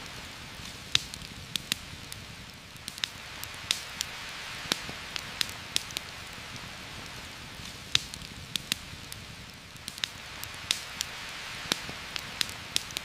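Steady rain falling, with a campfire crackling over it: irregular sharp pops, sometimes several in a second.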